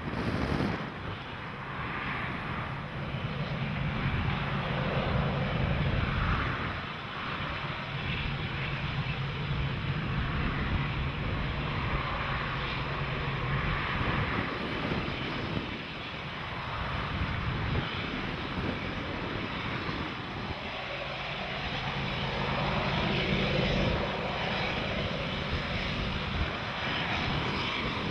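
Diesel locomotive engines running steadily in a continuous low drone, swelling and easing a few times.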